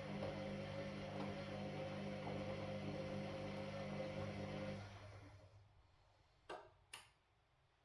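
Washing machine motor and drum running with a steady hum, winding down about five seconds in until it is nearly quiet. Two sharp clicks follow, about half a second apart, near the end.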